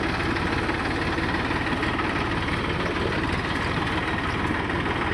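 Tractor diesel engine running steadily with an even, fast firing rhythm and no change in speed.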